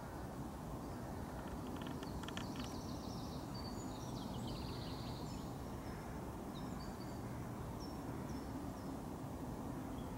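Outdoor ambience: a steady low background rumble with small birds chirping over it. There is a quick rapid trill about two seconds in, a run of falling chirps around four to five seconds, then scattered short high notes.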